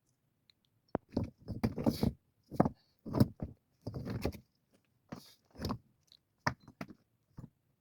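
A series of irregular knocks and scrapes, about a dozen, starting a second in, as of objects being handled and set down.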